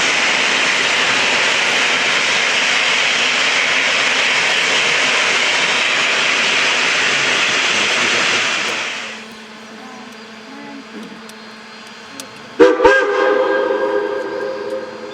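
Geared steam logging locomotive venting steam with a loud, steady hiss that cuts off sharply about nine seconds in. A few seconds later its steam whistle sounds one sudden blast of several tones that fades away near the end.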